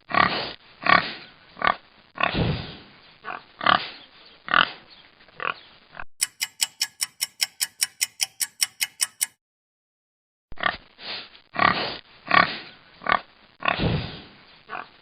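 Pig grunting and oinking in short, irregular calls; then a clock ticking evenly, about four or five ticks a second for three seconds; a brief silence; then the pig grunting again.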